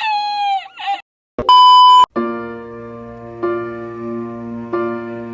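A short high voice-like sound falling in pitch, then a loud half-second beep tone like a censor bleep, then soft background music of held chords that change about every second and a half.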